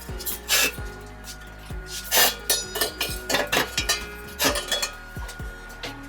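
Metal parts clinking and clanking as they are handled and set against each other, a dozen or so sharp knocks with short ringing, over background music.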